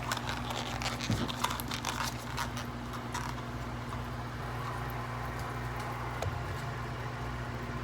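Scattered light taps and rustling, most of them in the first three seconds, over a steady low hum.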